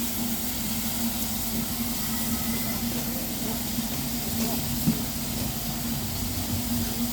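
Steam locomotive standing, with a steady hiss of escaping steam over a constant low hum. There is a single knock about five seconds in.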